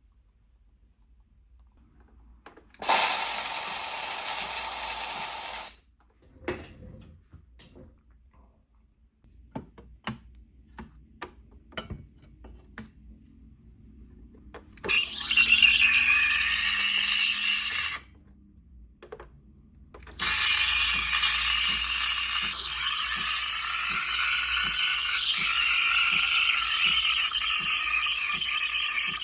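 Solis Barista Perfetta Plus espresso machine's steam wand hissing in three bursts, with clicks and knocks between them. The last and longest burst, about nine seconds, carries shifting squealing tones, as when steaming milk for latte art.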